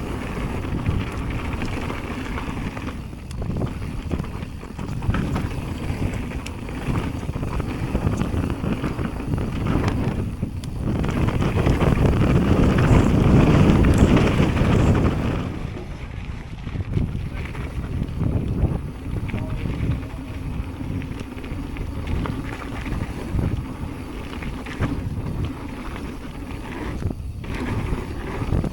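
Wind buffeting the microphone on a mountain bike descending a trail, mixed with the bike rolling and rattling over the dirt. The rush swells to its loudest about halfway through, then eases.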